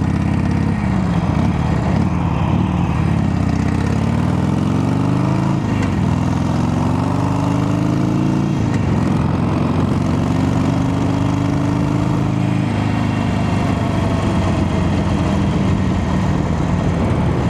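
Harley-Davidson Sportster 883's air-cooled V-twin pulling the bike along, its note climbing and then dropping at each upshift, three times in the first nine seconds, then holding a steadier pitch at cruise. Wind rushes over the microphone throughout.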